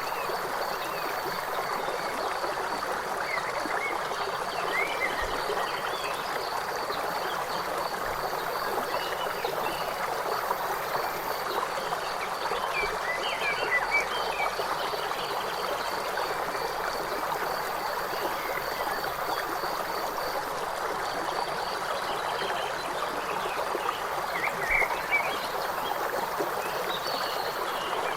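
A river flowing steadily, with a fast, high pulsing trill running under it and a few short chirping calls about five seconds in, around the middle, and near the end.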